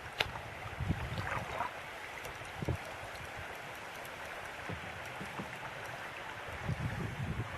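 Steady rush of creek current around a kayak on the move, with a few faint knocks.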